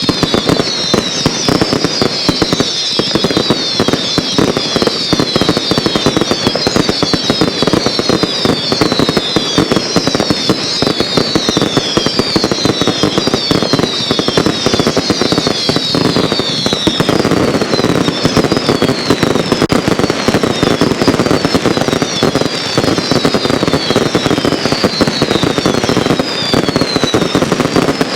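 Firework cakes going off in a fast, continuous crackle of small bangs, with many overlapping whistles that each fall in pitch. The whistles thin out about two-thirds of the way through while the crackling goes on.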